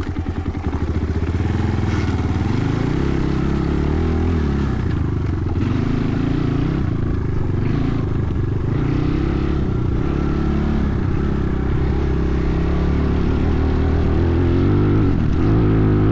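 Enduro motorcycle engine running: slow, distinct firing pulses at first, then revving and riding, its pitch rising and falling again and again.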